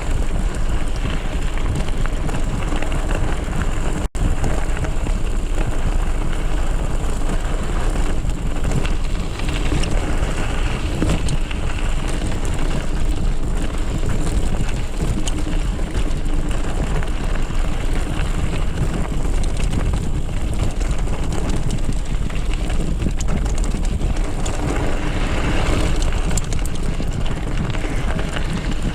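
Steady wind rush and rumble on a riding mountain biker's camera microphone, mixed with the noise of the bike rolling over a dirt trail. The sound briefly drops out about four seconds in.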